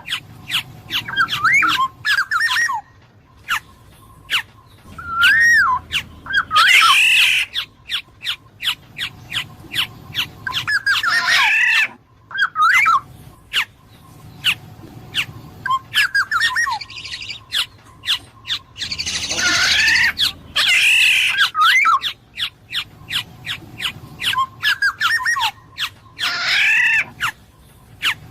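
Black-naped oriole (kepodang emas) calling: clear whistled notes that glide up and down, broken several times by harsh, scratchy squawks, with many sharp clicks in between.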